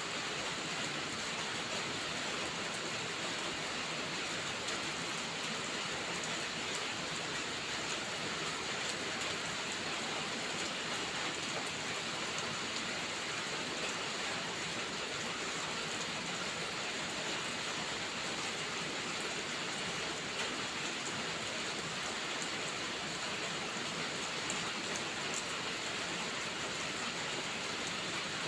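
Steady heavy rain: an even hiss with faint scattered small ticks.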